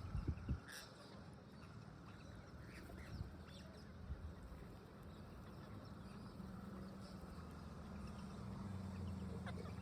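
Parrots giving a few short, scattered squawks over a low steady hum, with a couple of knocks just at the start.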